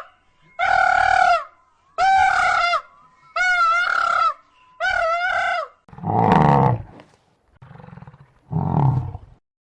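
Animal calls: four clear, high-pitched calls of even length, one about every second and a half, then, about six seconds in, three deep, rough roaring calls from a large animal.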